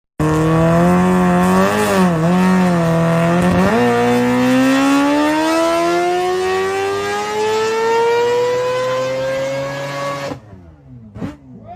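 High-revving car engine under hard acceleration. It holds a steady note with a couple of brief dips, then climbs in one long rising pitch for about six seconds, and cuts off suddenly near the end, leaving a fainter engine changing pitch.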